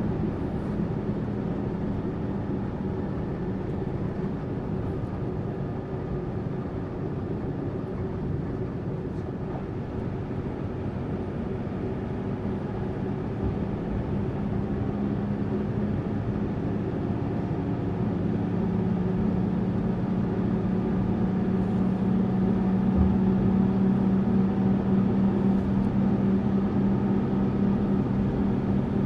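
Tourist bus running on the road: a steady engine hum over road noise, growing somewhat louder over the second half.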